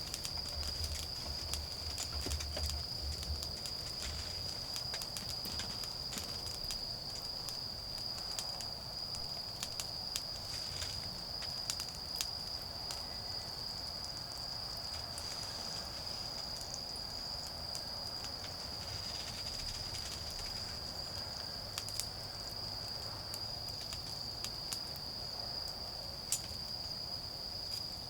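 Autumn insects, crickets, keep up a steady high-pitched trill. A wood fire crackles over it with scattered sharp pops.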